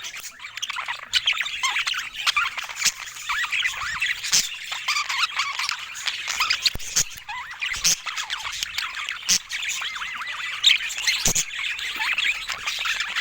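Budgerigars warbling and chattering, a dense run of quick chirps and squawks, with scattered sharp clicks.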